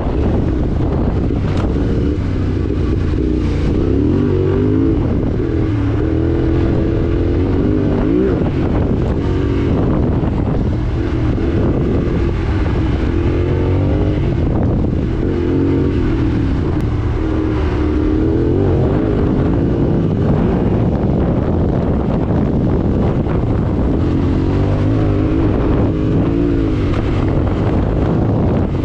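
Yamaha Ténéré 700's parallel-twin engine running while the bike is ridden off-road, its revs rising and falling again and again as the rider works the throttle.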